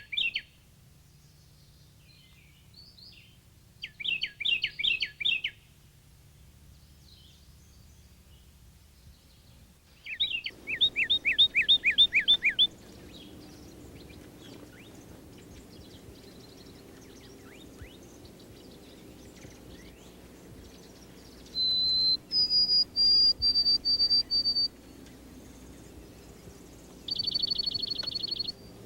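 Songbirds singing in separate bouts: a quick series of down-slurred notes, then a longer series of down-slurred whistles, then several high, steady whistled notes, and a short high trill near the end.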